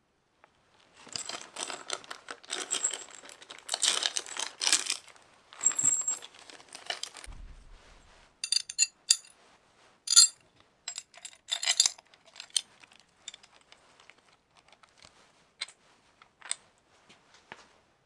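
Rustling and crinkling for several seconds, then a run of sharp, light metallic clicks and taps that thin out toward the end.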